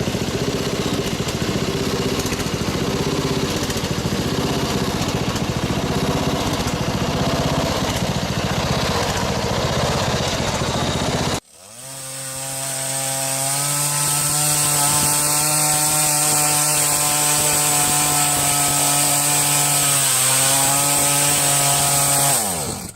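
Small engine running loud and rough. After a sudden cut about halfway, a steady pitched motor hum rises slightly, steps down, then drops in pitch and winds down to a stop near the end.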